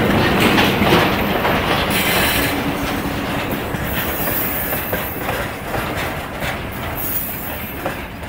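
Covered grain hopper wagons rolling past behind a ChME3 diesel shunting locomotive, wheels knocking over rail joints. The locomotive's engine sound fades as it draws away, so the whole sound gets gradually quieter.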